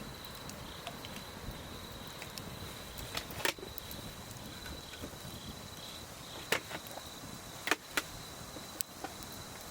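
An insect sings one steady high-pitched note throughout. A wood campfire gives a few sharp crackling pops, the loudest about halfway through and near the end.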